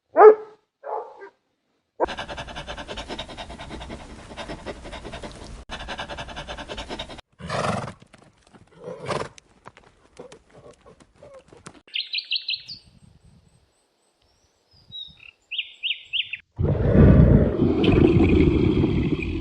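A run of different animal calls. Short calls at the start and a dense, rough stretch follow. Brief high bird chirps come in the middle, and near the end a loud, low roar-like call runs over birds chirping.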